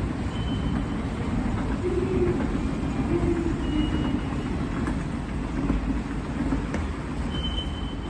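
Hitachi escalator running with a steady low rumble, with a few brief faint high tones on top.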